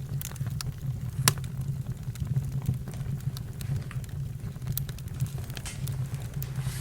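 Campfire crackling, with scattered sharp pops over a steady low rumble. One louder pop comes about a second in.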